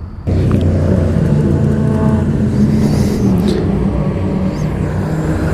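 Motorcycle engine running loud and steady, cutting in abruptly just after the start.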